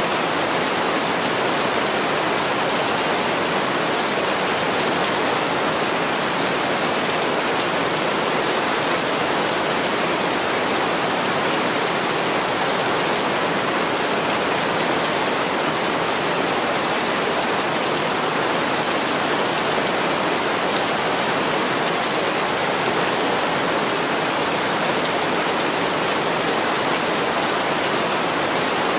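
Heavy rain falling steadily, a dense even hiss with no single drops or crackles standing out.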